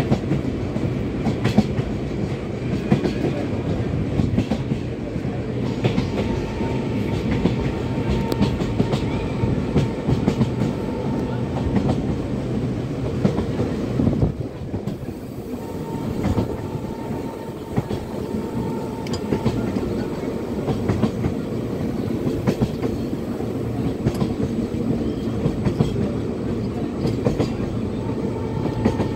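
Express passenger train running on rails, heard from aboard at an open coach door: a steady rumble of wheels and coaches with a clickety-clack of wheels passing over rail joints.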